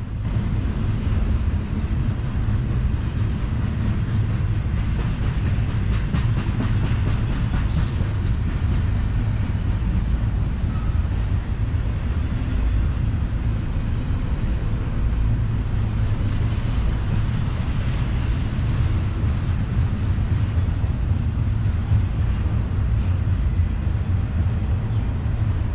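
Double-stack intermodal freight train rolling steadily past: a continuous low rumble of steel wheels on rail from the container cars, with a run of light clicks about six to eight seconds in.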